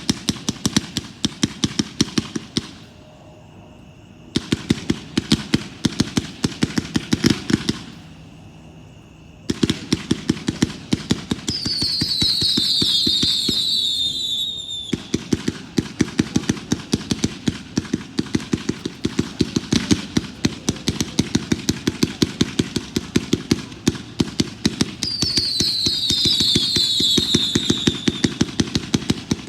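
A 214-shot consumer firework cake firing rapid shots, several a second, with two brief pauses in the first ten seconds. Twice a falling whistle sounds over the shots.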